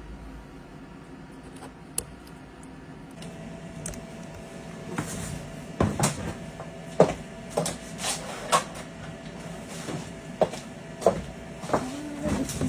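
Irregular sharp clicks and knocks, thickening from about five seconds in, from a phone and tools being handled during an iPhone repair. A faint steady hum sets in about three seconds in.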